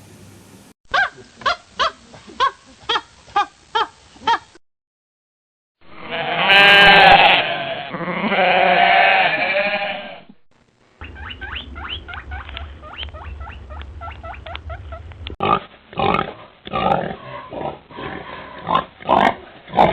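A run of farm animal calls in three separate clips. First come about eight short calls, two a second. After a brief pause there is a long call of several notes lasting about four seconds. Then comes a busier stretch of rapid short calls over a low hum.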